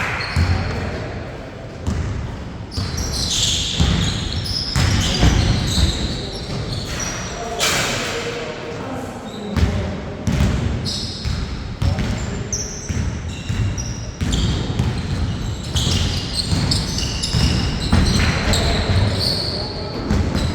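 Basketball being dribbled and bouncing on a court, with a steady run of thuds, short high shoe squeaks, and players calling out to each other.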